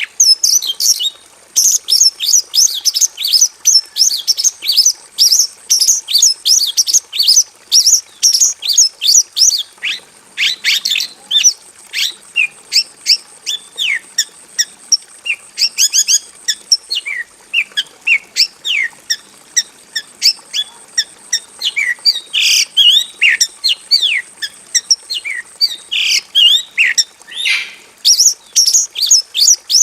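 A Javan bush lark (branjangan, Mirafra javanica) singing a long, continuous song of quick, varied chirps and trills with only brief pauses. The song is full of 'isian', phrases copied from other birds.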